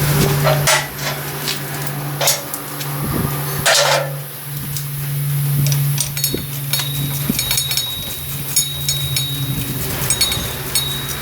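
Metal hand tools clinking and knocking against car parts. In the second half comes a run of quick, light clicks like a ratchet wrench being worked, all over a steady low hum.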